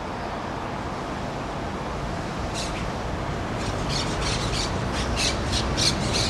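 Parrots squawking in a rapid series of short harsh calls, starting about two and a half seconds in and getting more frequent toward the end, over a steady low rumble.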